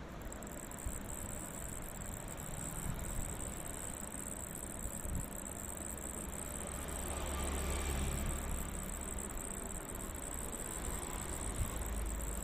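An insect calling with a steady, unbroken high-pitched buzz, over a low rumble that swells midway.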